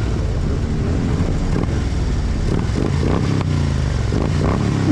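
Several motorcycle engines running at low revs, a steady rumble as a group of bikes rolls up.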